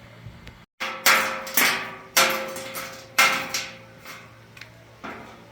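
Hammer striking metal: four sharp blows within about two seconds, each leaving a short metallic ring.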